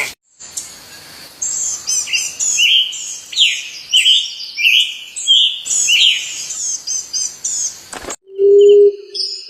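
Songbirds chirping in a rapid, dense series of short high sliding notes. Near the end the sound cuts abruptly to a loud, low, steady call lasting about a second, with faint high chirps behind it.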